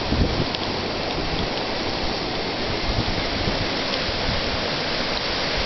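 Steady rushing of fast-flowing floodwater, an even hiss with no breaks.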